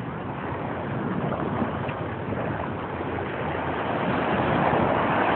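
Steady rushing noise of ocean surf mixed with wind on the microphone, swelling slightly near the end.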